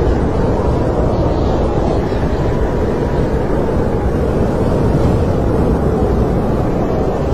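Snowstorm wind blowing steadily and loudly, with a faint whistle that drifts slightly in pitch.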